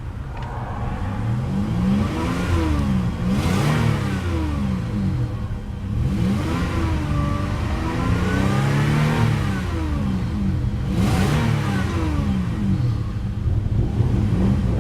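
1998 Lexus ES300's 3-litre V6 revved repeatedly while standing still, the pitch rising and falling about six times.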